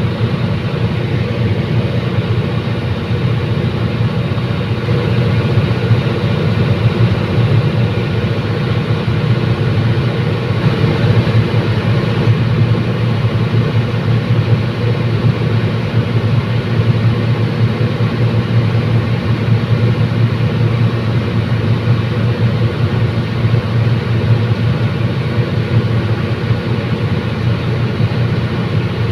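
Diesel commuter train running steadily, its engine giving a loud, even drone with a low hum and steady overtones.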